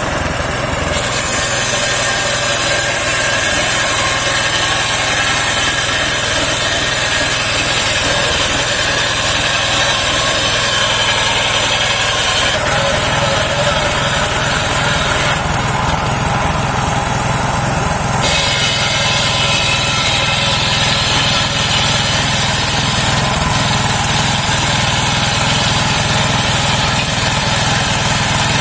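Homemade engine-driven circular sawmill running steadily while its blade saws saman (rain tree) wood, with a high whine over the engine that shifts several times as the cut goes on.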